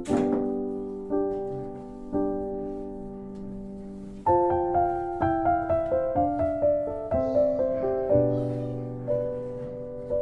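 Gentle solo piano background music: slow held chords, then from about four seconds in a quicker run of single notes. A brief sharp click at the very start.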